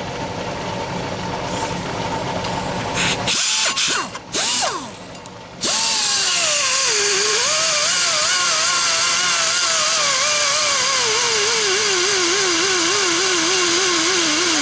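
A steady engine-like hum cuts off about three seconds in, followed by a few short rattling bursts. Then a handheld electric power tool runs loudly for about nine seconds, its motor whine wobbling and sagging under varying load, and it spins down just after.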